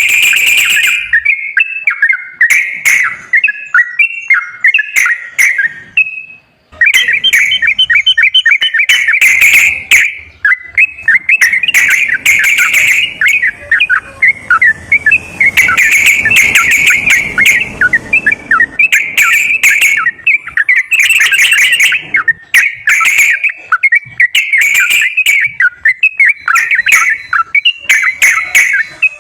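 Yellow-vented bulbul (trucukan) singing: loud, rapid, chattering warbles and chirps in quick runs, almost without pause. It breaks off briefly about six and a half seconds in.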